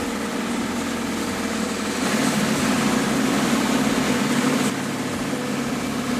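A vehicle engine running steadily, a little louder for a few seconds in the middle.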